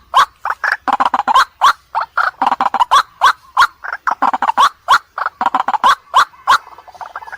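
White-breasted waterhen calling: a loud, rapid run of harsh repeated notes, several a second, broken by short pauses and a brief lull near the end.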